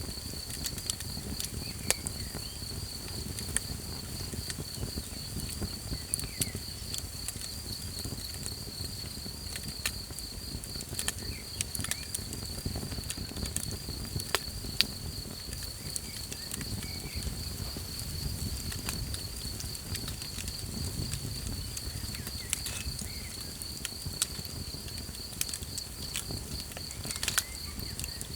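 Campfire crackling, with scattered sharp pops a few seconds apart and a low steady rush underneath, beneath a continuous high, pulsing trill of night insects.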